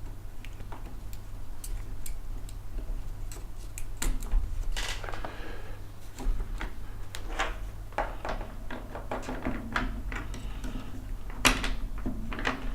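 Acrylic 3D printer frame pieces being handled and slotted onto an acrylic panel: a series of small, irregular clicks and knocks of hard plastic, with a sharper knock near the end, over a steady low hum.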